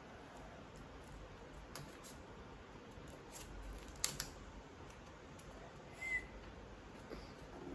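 Sheet of origami paper being folded and creased by hand: faint rustling with a few short sharp crinkles, the loudest about four seconds in. A brief high squeak about six seconds in.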